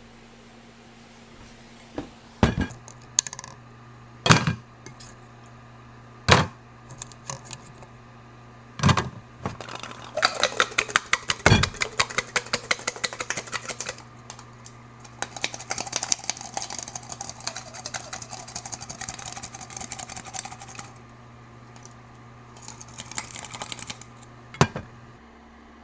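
Knife chopping quickly on a cutting board in several runs of fast, even taps. Scattered louder knocks, like utensils or pots being set down, come in between, over a steady low hum that cuts off near the end.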